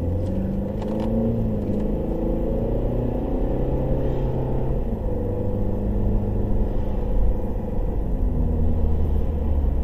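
A car's engine and road rumble while driving, a steady low drone whose engine note shifts up and down in pitch.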